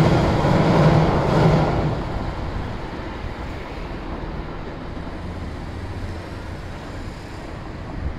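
JR 115-series electric train running away along the tracks, with wheel and motor rumble that is loudest at first and fades over the first two seconds. A steady low background of traffic follows.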